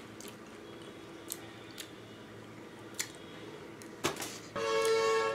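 A man chewing a bite of raw elephant apple petal, with a few soft, wet mouth clicks. About four and a half seconds in comes a short voiced sound from him, the loudest part.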